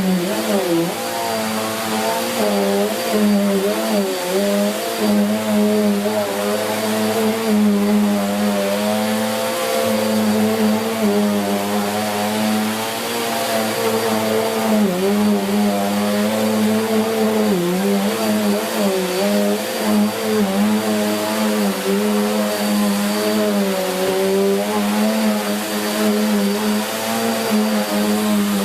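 Bissell Cleanview Plus 1900 W bagless upright vacuum running on carpet, very noisy, its motor pitch dipping and recovering over and over as it is pushed back and forth. The aggressive brush roll beats against the carpet, the machine clinging down so hard it is hard to push.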